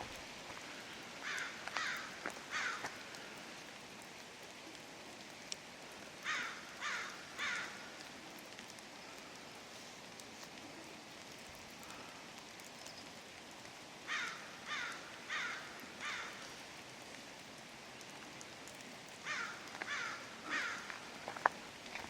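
A bird giving harsh, caw-like calls in four short series of three or four, over a steady hiss of rain falling on the forest.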